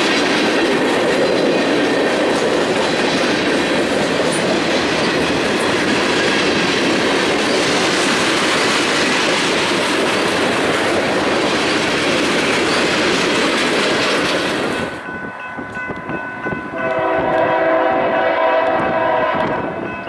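Freight cars rolling past close by, with steady wheel-on-rail noise and clickety-clack. About 15 s in the sound cuts off abruptly, and from about 17 s an approaching Union Pacific diesel locomotive sounds its horn, a chord of several tones, for about three seconds.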